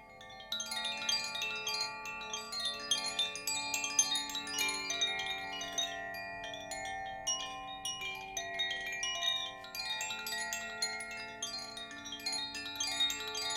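Chimes rung continuously, a dense shimmer of quick overlapping strikes that swells about half a second in, over sustained ringing tones.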